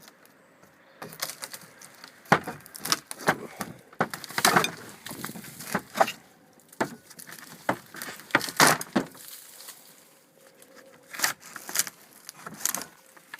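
Irregular clattering knocks, clicks and rattles of things being handled and moved, some in quick clusters, with no steady rhythm.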